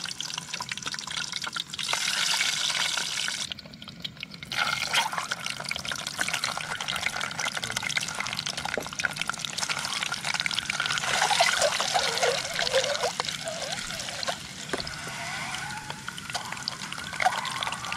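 Peeled hard-boiled eggs frying in hot oil in a pot on a camping gas stove, a steady sizzle full of fine crackles. It drops away briefly about four seconds in.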